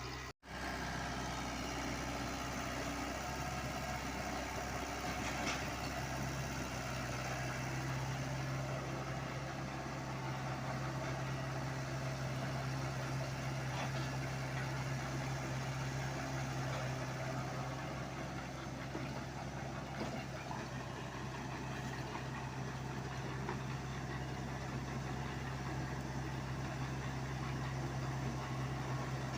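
Diesel engine of a Komatsu PC75UU mini excavator running at a steady, even speed. There is a momentary break in the sound about half a second in.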